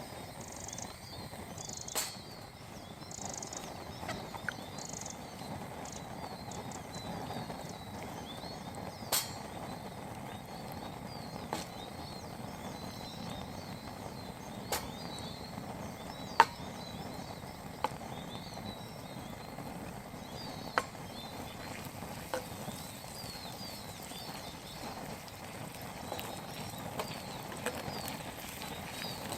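Burger patties and onions frying in a pan over a small gas hobo stove: a steady sizzle with sharp pops every few seconds. Birds chirp lightly throughout.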